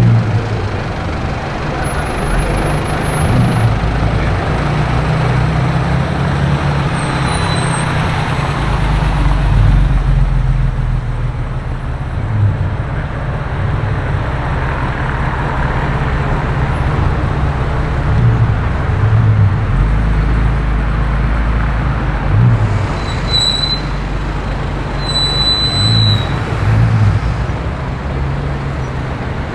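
Street traffic: vehicle engines running and passing with a steady low rumble, and a few brief, faint high-pitched squeaks about three-quarters of the way through.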